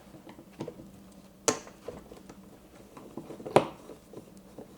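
Screwdriver working the small screws of a fuel petcock, with faint handling noise and two sharp clicks about two seconds apart, the second the louder.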